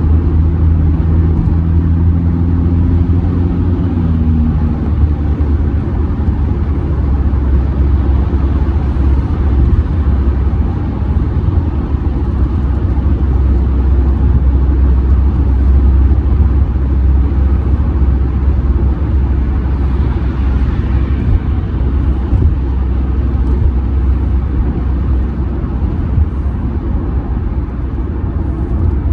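2007 Audi A6 C6 with the 2.0 TDI four-cylinder diesel, driving at highway speed and heard from inside the cabin: a steady, loud, low road-and-tyre rumble under a drone from the engine. A faint engine tone fades out about five seconds in.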